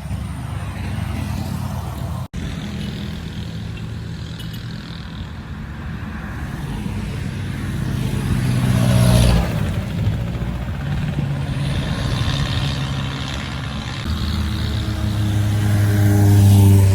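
Heavy truck engines labouring uphill, a steady low running note with a vehicle swelling loud as it passes about halfway through. Near the end a truck engine pulls harder and grows louder.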